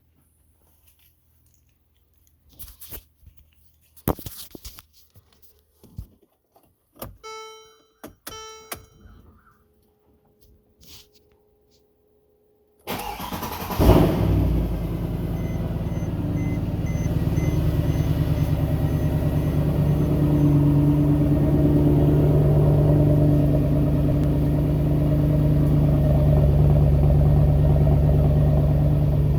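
Mercedes E63's M156 6.2-litre V8 cold start: a series of clicks and knocks and a couple of short electronic chimes, then the starter cranks and the engine fires about 13 to 14 seconds in. It settles into a steady cold idle, with no cam-adjuster rattle at start-up now that worn cam adjuster plates have been replaced.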